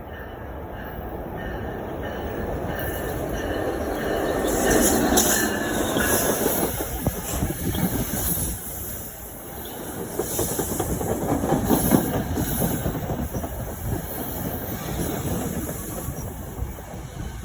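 Train rolling along the rails, its wheels clacking over rail joints with some wheel squeal. The sound builds over the first few seconds and rises and falls as the cars pass.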